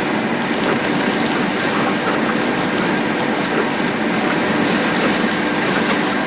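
Steady vehicle running noise with a constant hum through it, loud and even.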